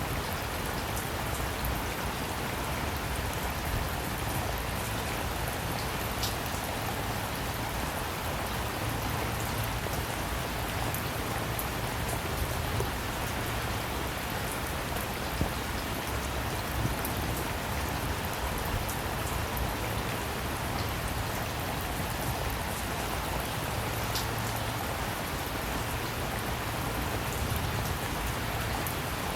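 Steady rain falling, an even hiss with many small drop ticks on a surface and a low rumble underneath.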